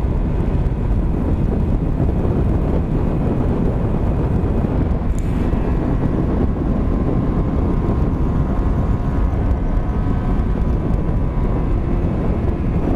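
Honda Varadero 125 V-twin motorcycle being ridden: a steady engine note under loud, even wind rush on the bike-mounted microphone.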